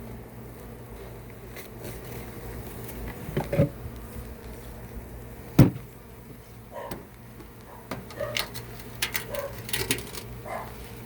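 A honeybee colony buzzing steadily in an opened hive box, with scattered knocks and clicks as the hive is handled, one sharp knock about halfway through.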